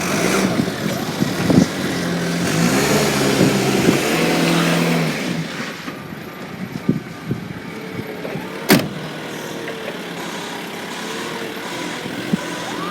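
Forklift engine running under load, louder for a few seconds while it works the pallet off the truck, then easing back. One sharp clank near the end.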